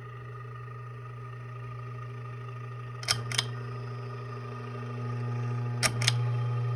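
Casablanca Genesis ceiling fan motor running without blades: a steady low hum with a weird whirring whine over it. Two pairs of sharp clicks come about three and six seconds in, and the hum grows a little louder near the end.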